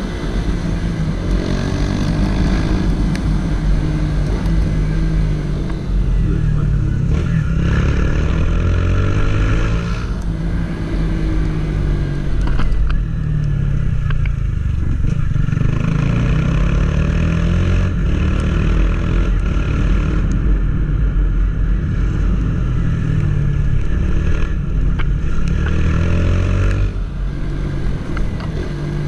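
Honda CG 160 Titan motorcycle's single-cylinder engine under way, its pitch repeatedly rising as it accelerates and dropping at each gear change or roll-off.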